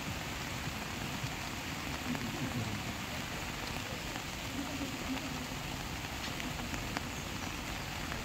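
Steady hiss of heavy monsoon rain and floodwater, with faint voices now and then in the background.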